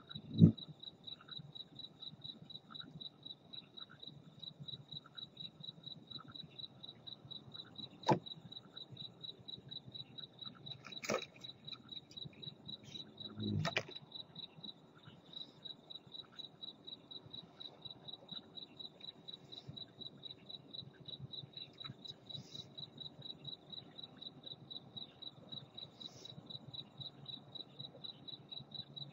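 A cricket chirping steadily in short, even, high chirps, about two to three a second. A few sharp knocks break in, the loudest right at the start and three more between about 8 and 14 seconds in.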